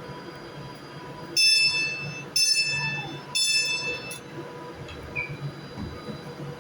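Train running past with a steady low rumble. Three sharp ringing metallic tones about a second apart, each fading quickly.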